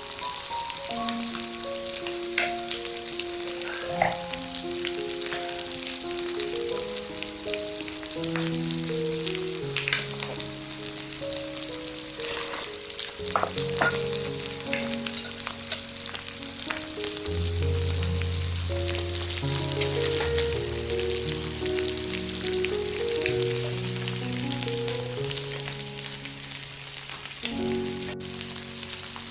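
Duck and kimchi sizzling on a cast iron grill plate: a steady dense crackle of many small pops. Slow background music with held notes plays over it, and both break off for a moment near the end.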